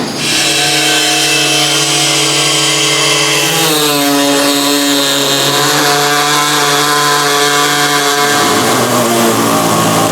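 A power tool cutting metal, running with a steady whine that drops in pitch about four seconds in and shifts again near the end as the load on it changes.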